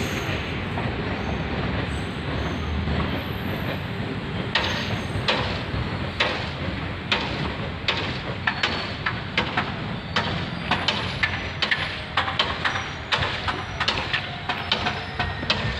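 A train running past on the railway line: a steady rumble, with sharp wheel clacks over the rail joints. The clacks begin a few seconds in and come faster and closer together in the second half.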